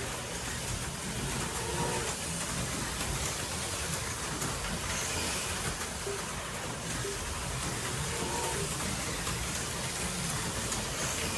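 HO scale slot cars running laps on a plastic track, their small electric motors whirring and the cars rattling along the slots in a steady mixed noise.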